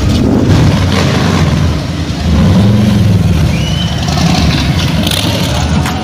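A motor vehicle engine running, louder from about two seconds in.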